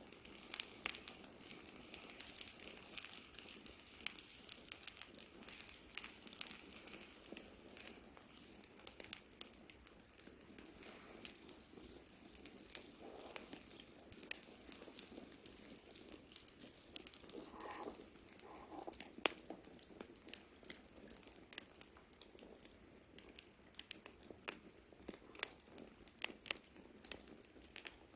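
Wood campfire crackling, with frequent irregular sharp pops and snaps over a soft hiss.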